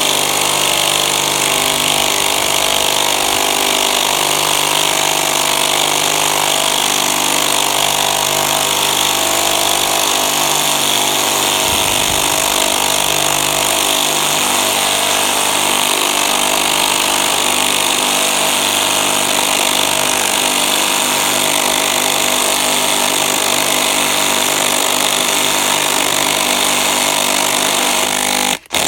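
Two cordless impact drivers, a Fein ASCD18-200W4 18 V and a Makita BTD136 14.4 V, hammering loud and steady as they drive long 13 mm hex-head Timberlok screws into timber under heavy load. The sound cuts out for a moment near the end.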